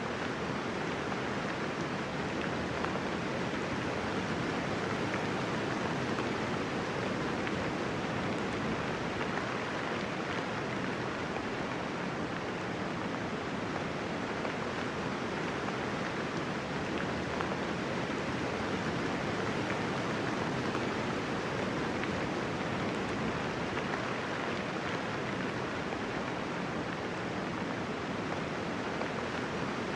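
Steady, even rainfall: a continuous hiss of many raindrops with no distinct drips or thunder.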